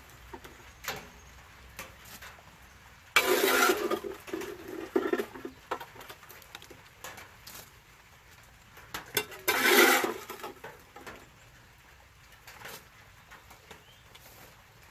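Old ash being cleaned out of a small wood stove: metal scraping and clanking, with scattered knocks and two louder scraping rushes, about three seconds in and again about ten seconds in.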